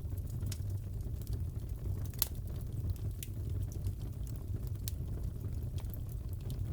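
Fireplace wood fire crackling: a steady low rumble of the flames with scattered sharp pops and snaps, the loudest about two seconds in.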